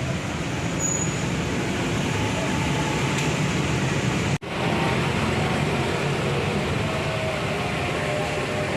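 Heavy rain and wind making a steady, dense rushing noise, which breaks off for an instant a little over four seconds in.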